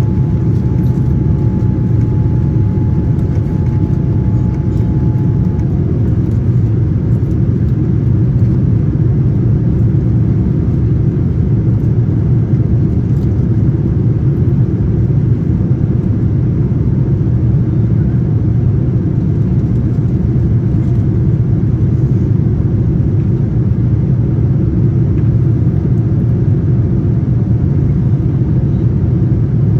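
Steady cabin noise inside a Boeing 787-9 in flight: a loud, even rumble of engines and airflow. A faint thin whine stops about five seconds in.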